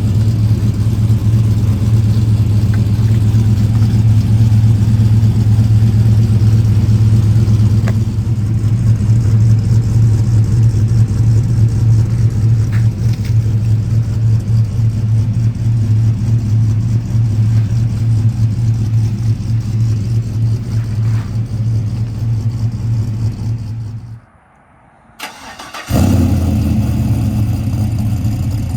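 Cammed 5.3 L V8 running through a true dual exhaust with Dynomax Ultra Flo mufflers, idling steadily soon after a cold start. Near the end the sound drops away for about two seconds and then picks up again.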